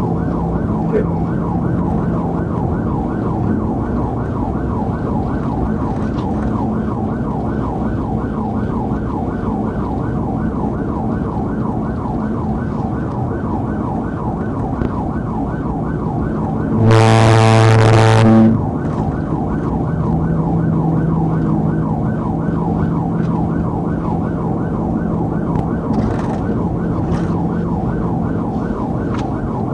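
Police car siren cycling in a rapid rise-and-fall under steady cruiser road noise. About 17 seconds in, a loud, steady horn blast sounds for about a second and a half.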